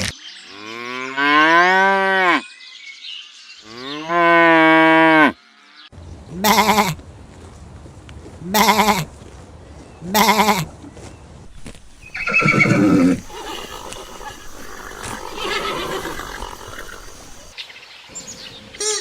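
Farm animals calling: two long, drawn-out lowing calls, then three short calls about two seconds apart, then a rough, pulsing call and a noisier stretch.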